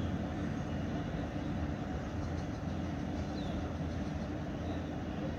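Steady low rumble of a distant diesel train, with no rise or fall. A few faint, short high chirps sound over it.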